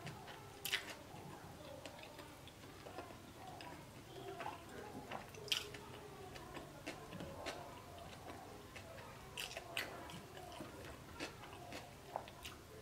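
A person chewing a mouthful of burger close to the microphone, with sharp mouth clicks and smacks now and then.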